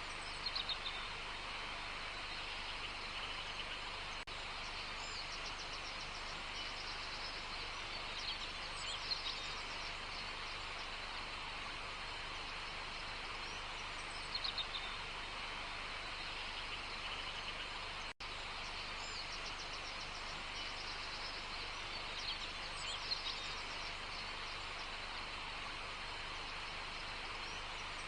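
Natural outdoor ambience: a steady hiss of background noise with a small bird's short, rapid trilled phrase repeated every six to eight seconds. The sound drops out for an instant about two-thirds of the way through.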